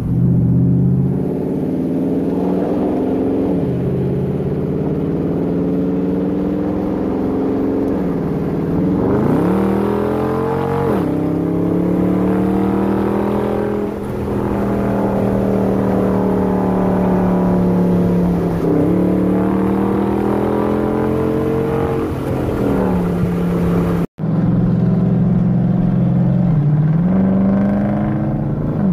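Car engine heard from inside the cabin under way, mostly holding a steady pitch with a few swells and dips in revs; about eleven seconds in the revs climb sharply and then drop, as at a gear change. The sound cuts out for an instant a little after twenty seconds in.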